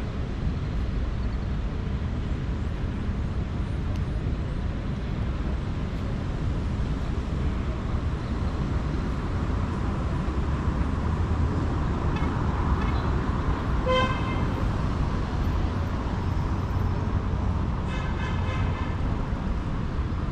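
Urban street ambience: a steady rumble of road traffic, with one short vehicle horn beep about two-thirds of the way through and another brief, higher horn sound near the end.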